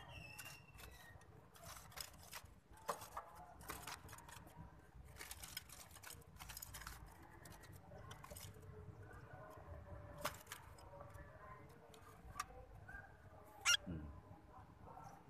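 Scattered clicks and rattles, with faint short bird chirps between them and one louder click near the end.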